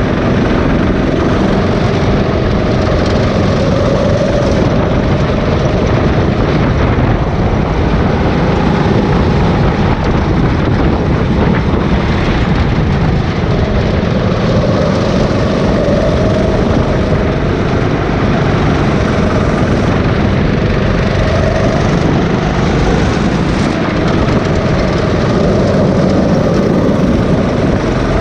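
Go-kart engine running continuously, its pitch rising and falling every few seconds as the kart speeds up and slows, under a dense, steady rushing noise.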